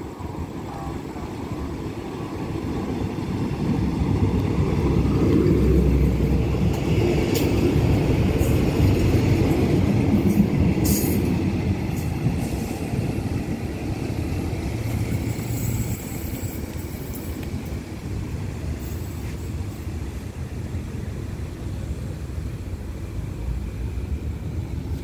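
A diesel multiple-unit train passing through a station at night. Its rumble builds over the first few seconds, is loudest for a stretch as the cars go by, with a couple of sharp clicks from the wheels, and then slowly fades as it moves away.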